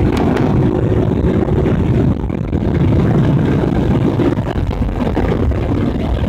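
Motorcycle engine running steadily while riding off-road, under a heavy low rumble.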